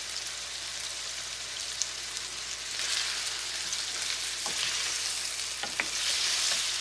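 Meat, tomatoes and onions sizzling in hot oil in a nonstick wok, the hiss growing a little louder about three seconds in as a wooden spoon starts stirring them, with a few light knocks of the spoon against the pan.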